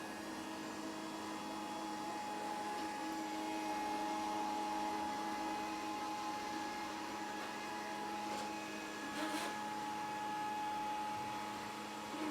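Grundig VCR 2131 robot vacuum cleaner running: a steady motor hum with a few fixed tones over a noise hiss, and one brief clatter about nine seconds in.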